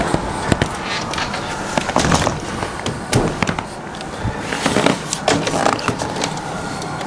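Boot kicking and scraping packed snow away from a doorway: an irregular run of crunches, scrapes and knocks.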